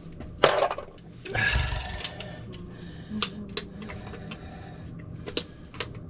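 Plumbing parts and tools being handled: a series of sharp clicks and knocks, with a loud short scrape about half a second in and a longer rustling scrape about a second and a half in.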